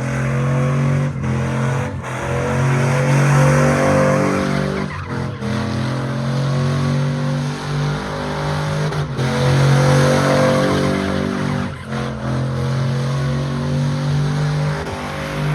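A truck engine held at high revs during a burnout, with tires squealing against the pavement. The engine note breaks off briefly several times.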